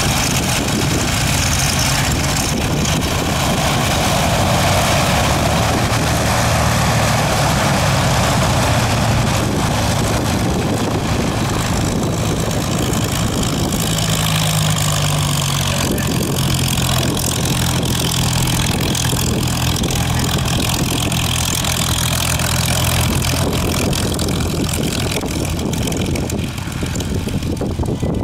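Engines running steadily at idle after being started, with a loud, continuous low engine note that shifts slightly about halfway through.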